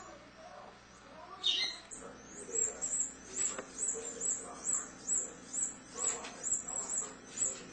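Canary nestlings cheeping in the nest: one louder falling chirp about a second and a half in, then a steady run of short, high cheeps, about three a second.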